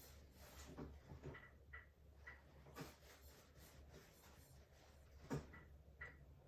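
Near-silent room tone with faint, scattered strokes of a paintbrush dragging and dabbing on canvas, the clearest about five seconds in.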